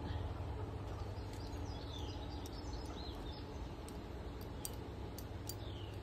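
A few faint, short falling bird chirps spread through, over a steady low background hum, with scattered faint high ticks.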